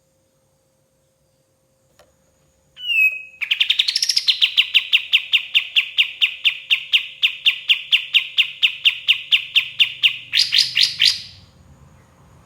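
Kapas tembak, a bulbul, singing: a short slurred note, then a long fast run of repeated chattering notes, about five a second, that ends in a few higher, louder notes.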